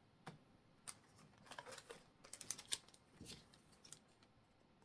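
Faint crinkling and clicking of a foil booster pack and trading cards being handled, in a few short clusters through the middle.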